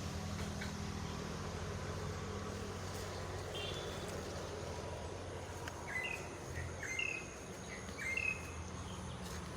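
Three short, high chirps about a second apart in the second half, over a steady low hum.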